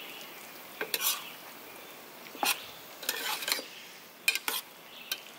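A metal spoon scraping and clinking against a pan or dish in several short strokes, over a faint steady hiss.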